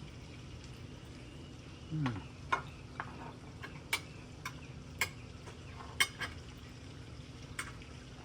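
Cutlery clicking against a plate while eating: about eight sharp, irregular clicks spread over the last six seconds, over a low steady background hum. A short low falling sound comes about two seconds in, just before the clicks start.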